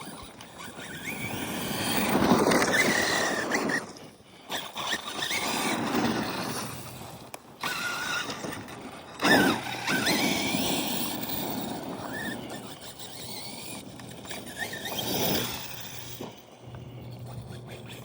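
Brushless electric RC car driving fast and passing several times. Its motor whine and tyre noise swell and fade with each pass.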